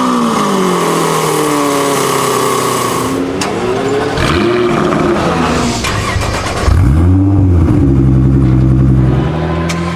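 A performance car engine being revved: several quick blips where the pitch shoots up and falls back, with steadier held notes in between and a few sharp pops.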